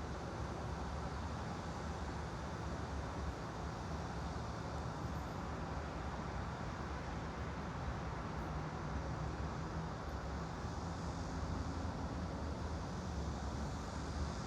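Steady white-noise ambience: an even rumbling hiss with a low hum and no distinct events.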